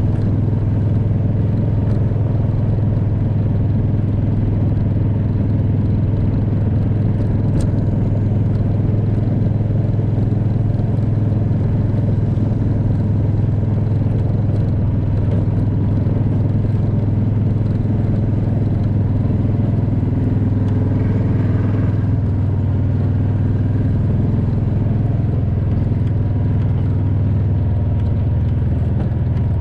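A vehicle engine running steadily, a constant low drone.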